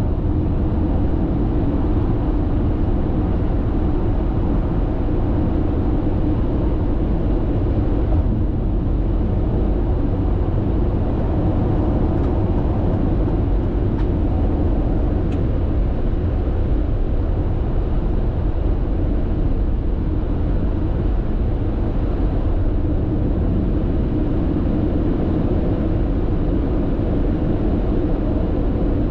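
Steady road and tyre noise inside a car cruising at constant expressway speed, an even low rumble.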